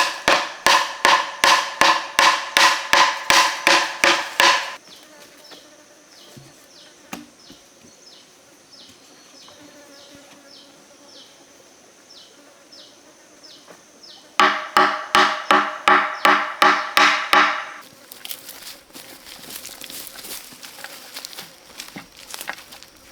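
An insect calls loudly in a regular series of pitched pulses, about three a second, in two bouts of about four seconds each. A fainter ticking call runs in between. Near the end a denser rustling crackle takes over.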